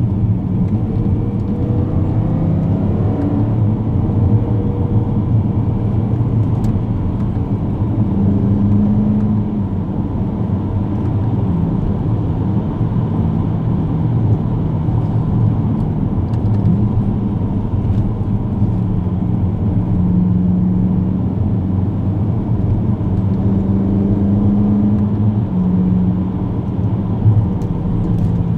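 BMW E92 M3's V8 through a Tubi Rumore aftermarket exhaust, heard from inside the cabin while driving. A steady low drone whose pitch steps up and down a little now and then, with no hard revving.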